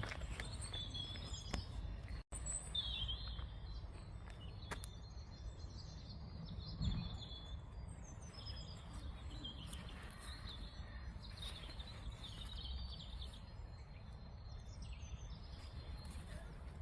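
Small birds chirping and calling on and off over a steady low outdoor rumble, with a brief dropout about two seconds in.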